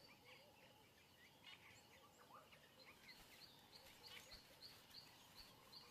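Very faint bush ambience of birds chirping, one bird repeating a short high chirp about two to three times a second.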